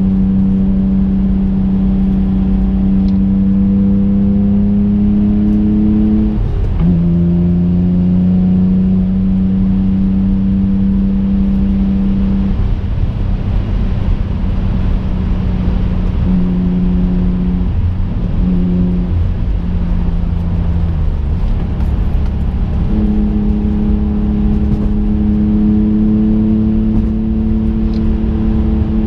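Twin-turbocharged 3.5-litre V6 of a 2005 Infiniti G35 coupe driving under way, heard from inside the cabin over steady road noise. The engine note climbs slowly, drops sharply about six seconds in at an upshift, fades and comes back unevenly for several seconds in the middle as the throttle eases off, then holds steady again near the end.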